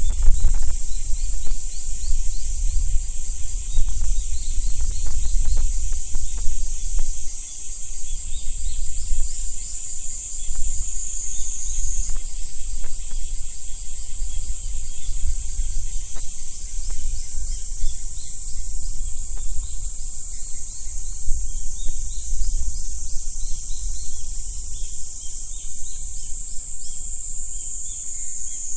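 Insects chirring in a continuous high drone, with short repeated chirps of birds or other insects over it, and a steady low rumble underneath.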